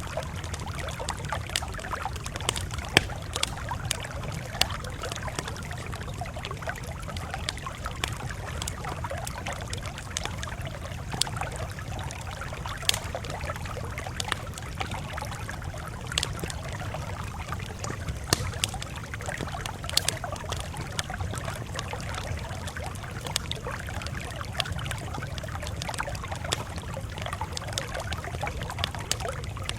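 Campfire crackling: irregular sharp pops and snaps scattered over a steady low rumble of burning.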